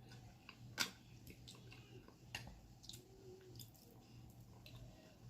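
Faint, wet mouth sounds of chewing a soft, creamy mouthful of baked potato with shrimp and Alfredo sauce, with scattered small smacks and a sharper click about a second in.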